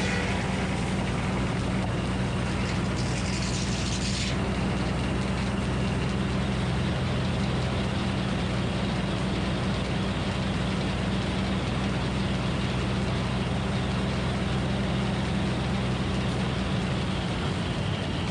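Minneapolis Moline HEB 605 cubic-inch engine running steadily at an even idle, a deep, constant drone. A brief hiss starts about three seconds in and stops about a second later.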